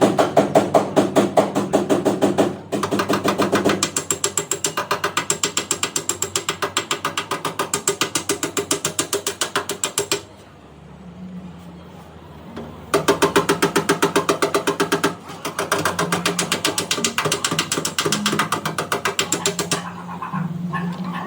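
Fast, evenly spaced mechanical clicking, several clicks a second, in long runs with a quieter pause about ten seconds in.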